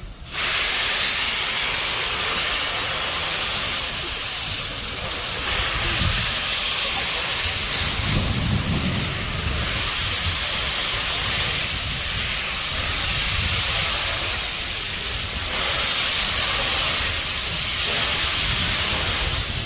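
Steam locomotive letting off steam: a loud, steady hiss that starts suddenly about half a second in, with a low rumble beneath it that swells now and then.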